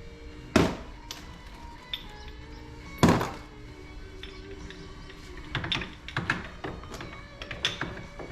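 Two heavy hammer blows on metal about two and a half seconds apart, then a run of lighter taps and clicks, typical of driving worn bearings out of a dirt bike frame. Background music plays underneath.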